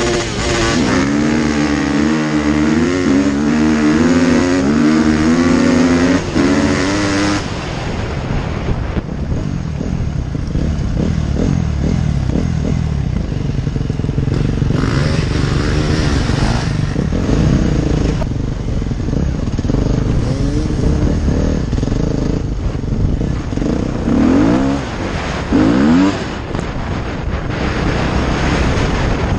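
Dirt bike engine revving hard with a wavering pitch for several seconds, then running on rougher and more unevenly, with two short rising revs near the end.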